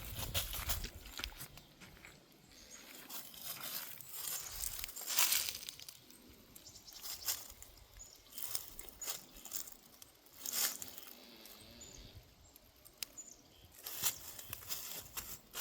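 Irregular crunching and crackling of dry plant material, with a few louder snaps about five, ten and fourteen seconds in.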